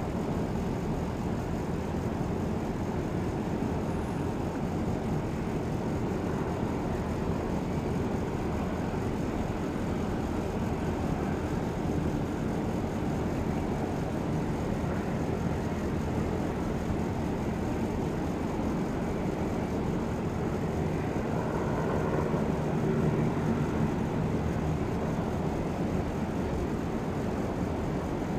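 Steady jet airliner engine noise, a continuous rumble that swells slightly about three quarters of the way through.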